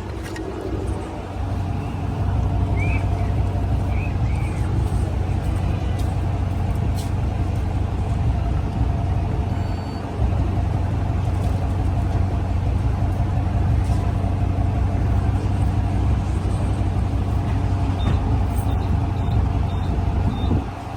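Low, steady rumble of a Chrysler 300's Hemi V8 and road noise heard inside the cabin while driving, dipping briefly about halfway through.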